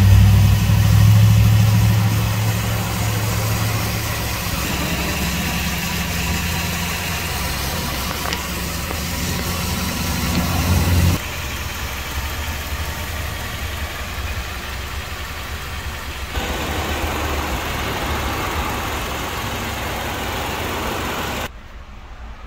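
Honda CR-V's 2.4-litre four-cylinder engine idling steadily, with a strong low hum. About eleven seconds in the hum drops away, leaving a steadier rushing noise, and the sound falls quieter shortly before the end.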